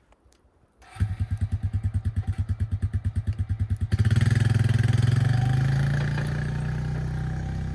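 Small diesel engine of a 1.8-ton mini excavator cranked by its starter motor for about three seconds, then catching about four seconds in and running steadily.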